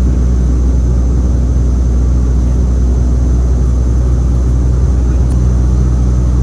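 Dash 8 turboprop's engines and propellers droning steadily, heard inside the passenger cabin as a loud, even low hum with a faint high whine above it.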